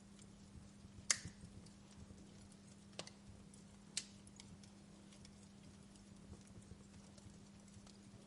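Wood fire in a fireplace crackling softly, with scattered sharp pops: the loudest about a second in, two more around three and four seconds in. A faint steady low hum runs underneath.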